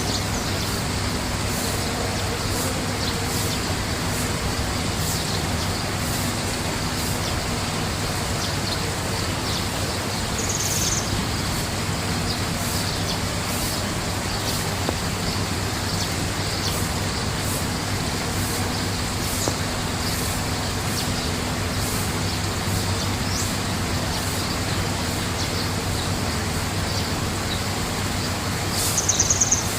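Birds chirping faintly over a steady rushing background with a low hum, with two brief high trills, one about a third of the way in and one near the end.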